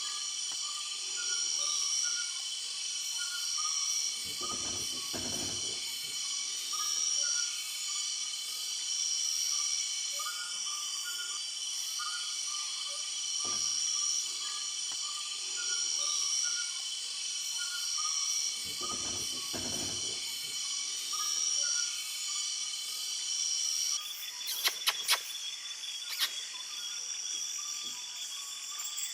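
Night chorus of crickets and other insects: several steady high trills overlapping, with repeated short pulsed calls beneath them. A couple of brief low rumbles break in, and a cluster of sharp clicks comes near the end.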